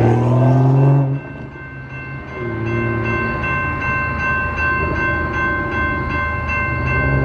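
Diesel locomotive horn sounding and cutting off about a second in, over a railroad crossing bell ringing steadily at about two strokes a second; the low train sound comes back near the end.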